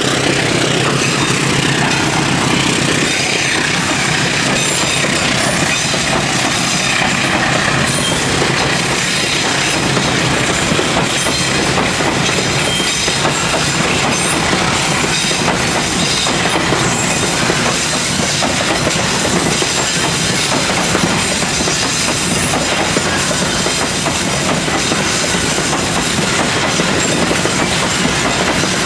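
Freight train of loaded container flatcars rolling past at speed: a steady loud rush of wheels on rail with a constant run of clicks and clatter as the wheels cross the rail joints.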